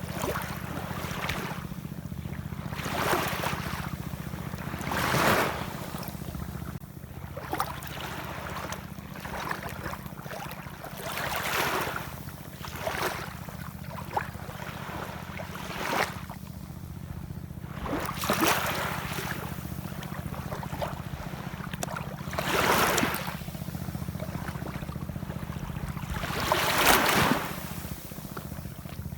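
Ocean waves washing and splashing in short surges every few seconds, over a steady low rumble of wind and surf.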